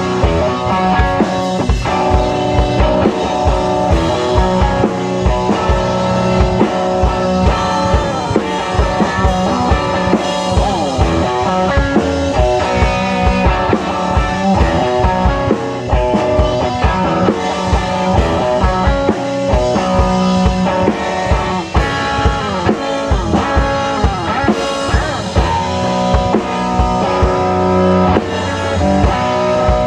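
Live band jam in raw, unmixed sound: guitar playing with sliding, bending notes over a drum kit keeping a steady beat.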